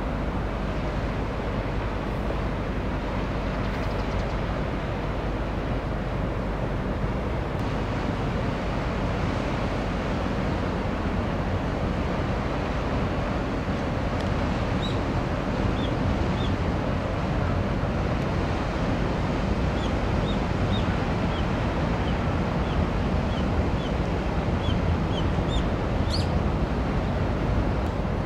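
Steady low rumble of a small chemical tanker passing, mixed with wind and water noise. Short bird chirps repeat in the second half.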